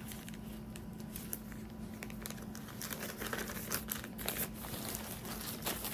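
Packaging being handled, crinkling and rustling in a scatter of short sharp strokes that come thicker in the second half.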